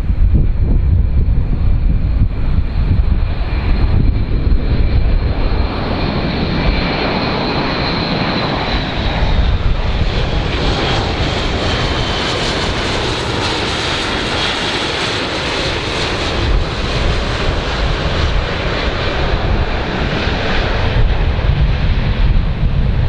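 Aircraft engines running loud over a heavy low rumble. A high whine glides slightly, and a hiss swells through the middle and then eases.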